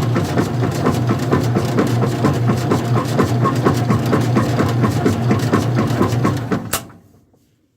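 Old-style front-loading washing machine running: a steady motor hum with rapid, even rattling ticks, several a second. It cuts off with a sharp click about seven seconds in, leaving near silence as the wash stage ends before the drain and spin.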